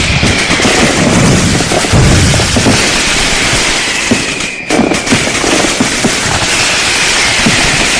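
Fireworks display: dense crackling and popping with low booms, one about two seconds in, and faint whistles that fall slowly in pitch, with a brief lull about halfway through.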